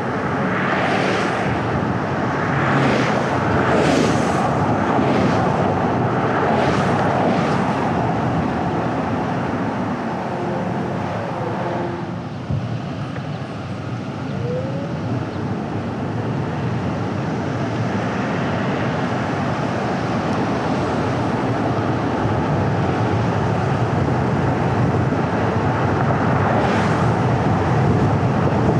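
Road noise of a car driving: a steady rumble of tyres and engine, with several short hissing swells in the first eight seconds and another near the end.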